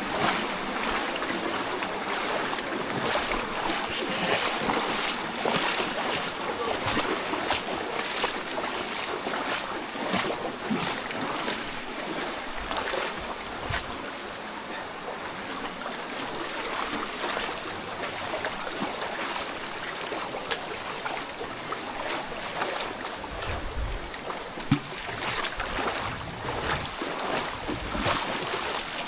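Steady rush of flowing water, with scattered small clicks and knocks over it.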